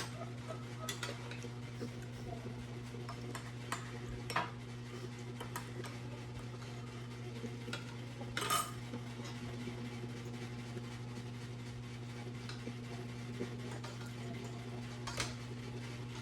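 Spoons and forks clinking now and then against plates as people eat, over a steady low hum.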